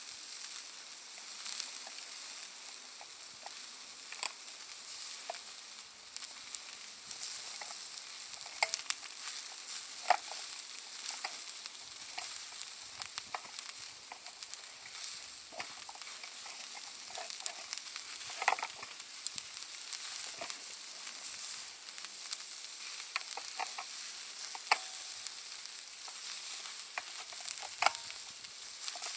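Charcoal and wood fire crackling over a steady hiss, with irregular sharp pops from the Iwate cut charcoal bursting, a few of them louder than the rest.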